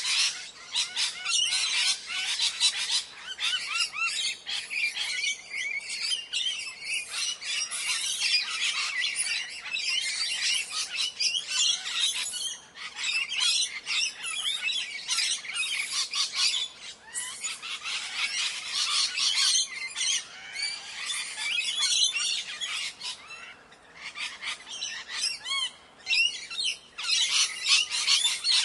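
A flock of parrots calling, many shrill, overlapping squawks and chirps at once, thinning out briefly a few times.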